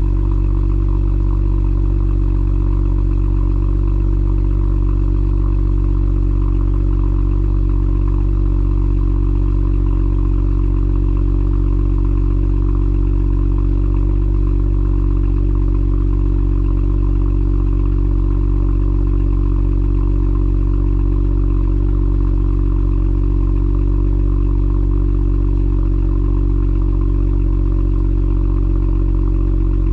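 Alpina B3 Biturbo's N55 turbocharged straight-six idling steadily through an Akrapovič exhaust after a cold start, a deep even exhaust note with no revving.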